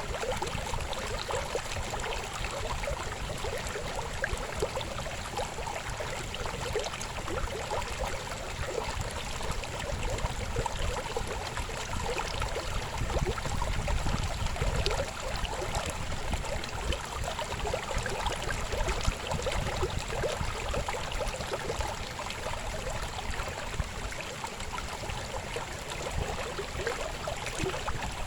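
River babbling and gurgling in a steady flow.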